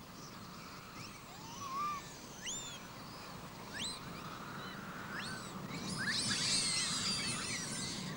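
Small birds chirping: a few scattered single calls, then a dense flurry of many overlapping chirps from about six seconds in.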